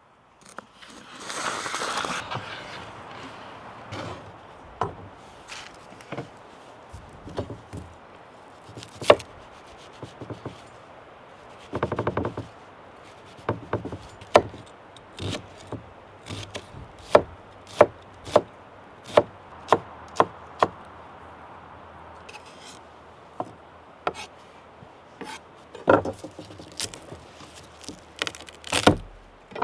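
Knife chopping on a wooden cutting board: scattered sharp knocks, with a steady run of even chops through the middle and a short scraping rush about a second in.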